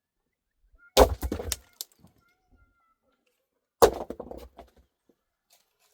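Two sharp cracks a little under three seconds apart, each followed by a brief crackling rattle.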